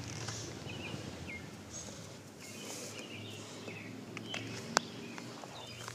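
Quiet outdoor background with scattered faint, short, high bird chirps, and one sharp click a little before the end.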